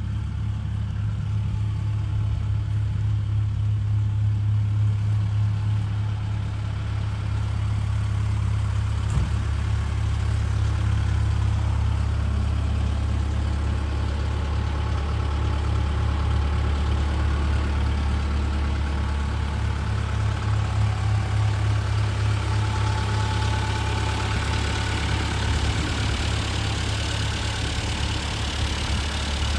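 Caterpillar CAT 310 mini excavator's diesel engine idling steadily with a low, even hum.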